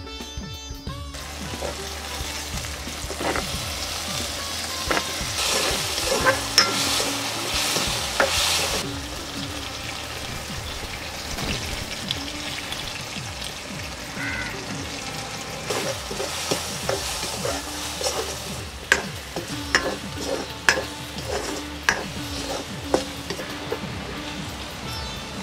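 Cubed potatoes with tomato and onion sizzling in an iron kadhai while a wooden-handled ladle stirs them, scraping and knocking against the pan. The sizzle grows louder for a few seconds about five seconds in, and the ladle knocks come thick and sharp in the second half.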